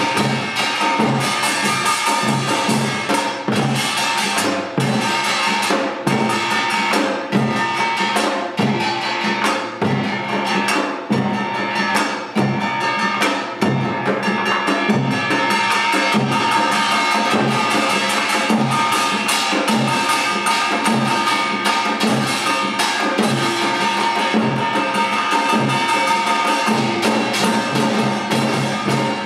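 Korean samulnori percussion ensemble playing a Yeongnam-style piece: kkwaenggwari small gong, jing large gong, janggu hourglass drum and buk barrel drum. The strokes come fast and dense, over a steady ring of the gongs.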